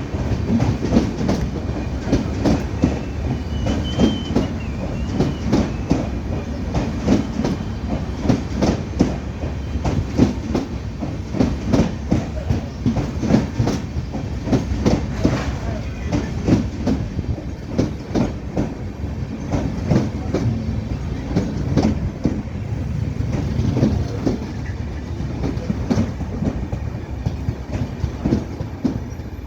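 Kamrup Express passenger train running on the track, a steady rumble with its wheels clattering over the rail joints in a continuous run of knocks.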